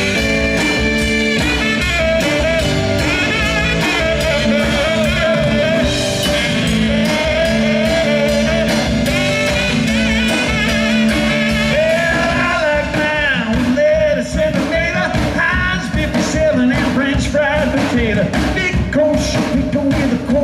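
Live rock band playing a mid-tempo song, with drums keeping a steady beat under a wavering lead melody line.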